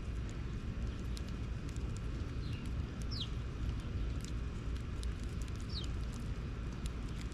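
A bird gives short whistled calls that fall in pitch, about three times, the middle one loudest. Under them run a steady low rumble and scattered sharp clicks.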